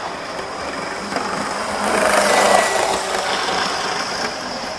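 Model train running on the layout track, its small electric motor and wheels making a steady mechanical noise. The noise grows louder about two seconds in as the train comes close, then eases off a little.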